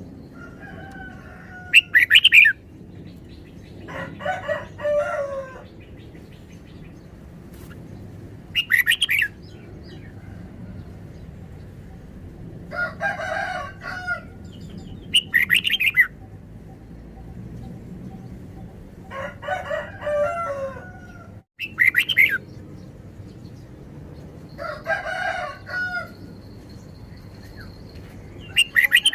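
Red-whiskered bulbul singing short, loud, chirpy phrases about every six or seven seconds. Lower, longer calls that slide down at the end come in between.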